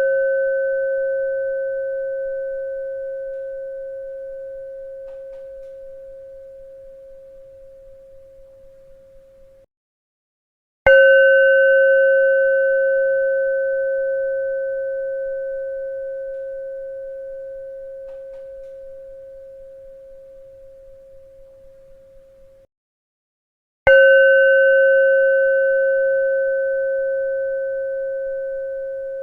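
A bell struck about every 13 seconds, each strike ringing out as one clear, slowly fading tone with a few higher overtones and a slight wavering as it dies away. Each ring is cut off suddenly about a second before the next strike, twice in this stretch, with new strikes about 11 and 24 seconds in.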